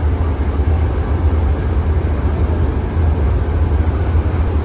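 Departing passenger train rolling past on the rails: a loud, steady low rumble.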